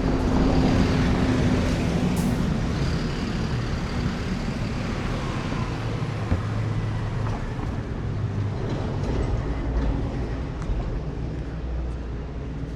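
Street traffic: the engines of passing motor vehicles run with a low hum. They are loudest in the first couple of seconds and fade gradually toward the end.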